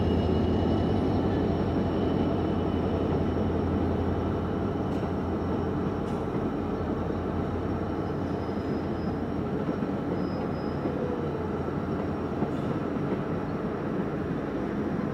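Sundarban Express, a Bangladesh Railway intercity passenger train, rolling slowly past: a steady rumble of coach wheels on the rails, growing slightly quieter over the seconds.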